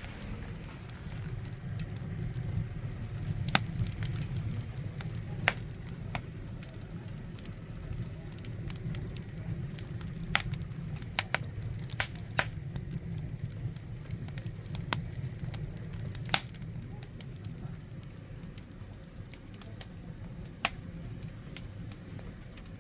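Firewood fire burning under a cast-iron cauldron, crackling with sharp, irregular pops over a steady low rumble.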